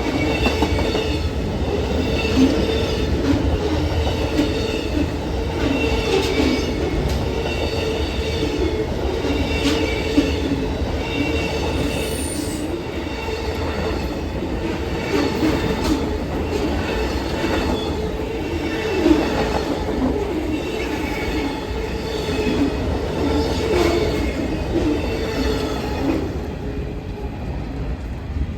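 A train rolling past at close range: the steady rumble of the rail cars, with wheels clicking over rail joints and a high metallic wheel squeal over the top. It eases off slightly near the end.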